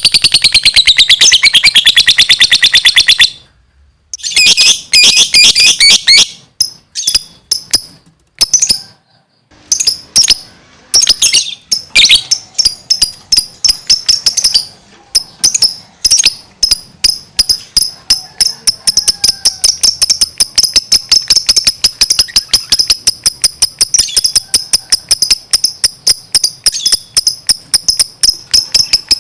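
Lovebird chattering in long, very rapid, shrill trills, the non-stop 'gacor' song of a bird in full voice. It breaks off a little after three seconds in, then comes back in short bursts that run together into one continuous rapid trill.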